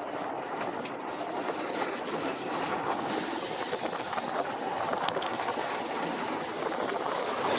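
Steady rushing wind and road noise of a moving motorcycle ride, with no clear engine note.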